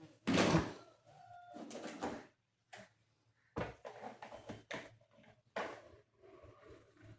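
Toys and their packaging being handled: a series of rubs, scrapes and knocks, the loudest a third of a second in, with a brief squeak about a second and a half in.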